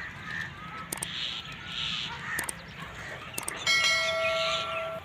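Scattered bird calls, then about three-quarters of the way through a loud bell-like ringing tone starts suddenly, holds steady and cuts off abruptly.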